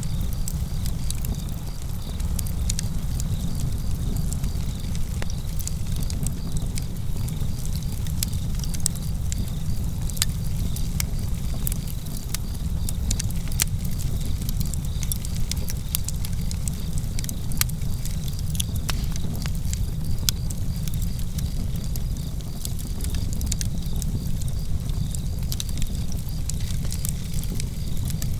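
Campfire crackling, with frequent sharp pops and snaps of burning wood over a steady low rumble. Crickets chirp steadily and faintly in the background.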